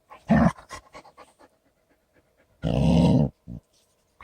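A dog panting and huffing during rough play with a cat, with a short burst of breath near the start, a louder one lasting over half a second past the middle, and small scattered clicks in between.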